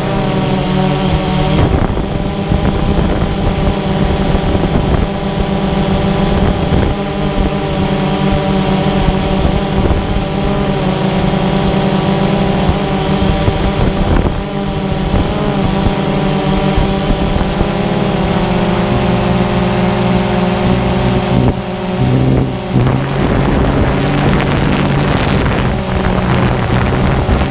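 Multirotor drone's motors and propellers buzzing steadily, a droning hum with many overtones. The pitch shifts a little past the middle as the motor speeds change.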